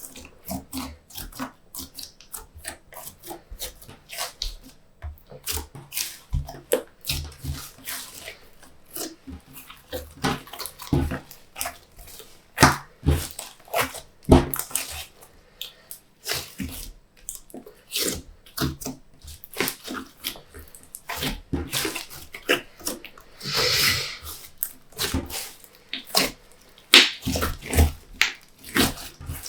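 Glossy slime being squished and kneaded by hand: a run of irregular wet clicks and pops, with one longer squelch about three quarters of the way through.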